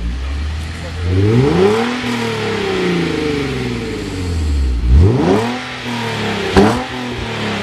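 Hyundai Genesis Coupe 3.8 V6 running through a Sevenism aftermarket exhaust, revved from idle. The revs climb about a second in, hold for roughly three seconds and drop back, then it is revved again, with a quick sharp blip near the end.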